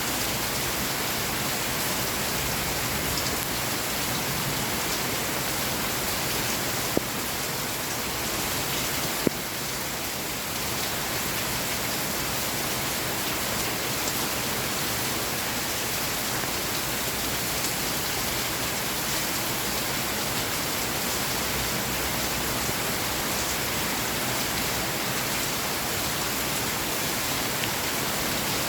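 Steady rain falling, an even dense hiss, with two sharp ticks of drops striking something close by about seven and nine seconds in.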